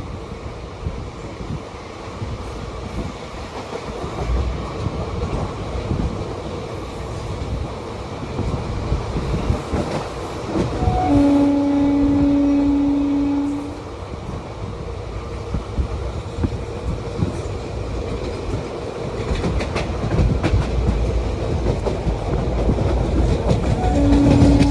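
Train running with wheels clacking over the rails and a continuous rumble. Its horn sounds one steady note for about two and a half seconds near the middle, then again right at the end.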